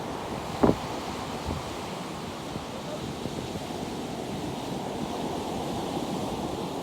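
Ocean surf breaking, with wind buffeting the microphone. About half a second in, one sharp thump stands out above it.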